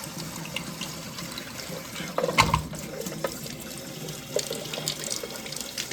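Tap water running and splashing as a clogged furnace moisture-drain part is rinsed out under it, flushing out dirt and bugs. A knock a little over two seconds in.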